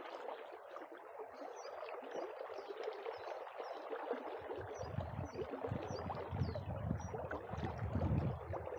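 River water rushing steadily, with small birds chirping in short high notes over it. From about halfway a gusty low rumble joins in, wind buffeting the microphone.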